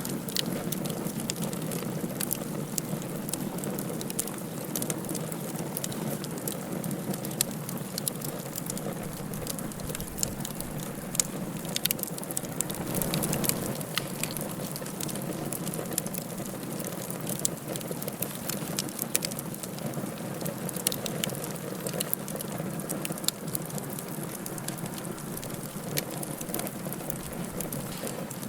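Wood fire burning in a fireplace, crackling with many sharp irregular pops over a steady hiss.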